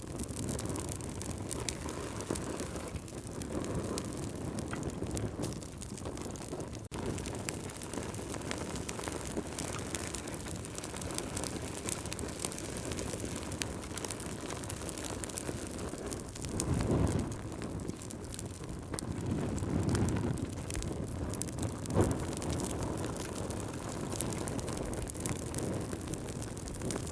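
Campfire burning, crackling with many small pops over a steady low rush. Two swells of low rushing come about two-thirds of the way through, and one sharper pop follows soon after.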